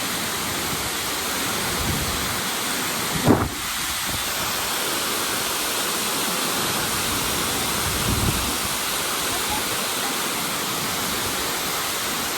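Steady, full rush of Tortum Waterfall's falling water, with a brief low thump about three seconds in and a softer one about eight seconds in.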